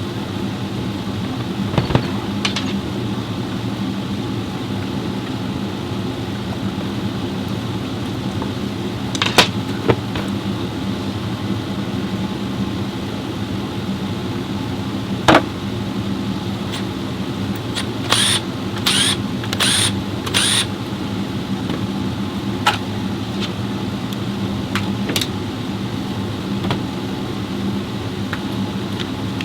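Workshop sounds: a steady machine hum with a few sharp metallic knocks. About two-thirds of the way through there is a quick run of four short hissing bursts.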